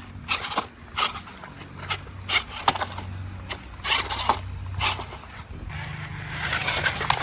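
Toy RC rock crawler driving over rough ground: its small electric motor hums steadily under repeated scrapes and clacks from the tyres and chassis on rocks and dirt, with a rougher hiss of grinding near the end.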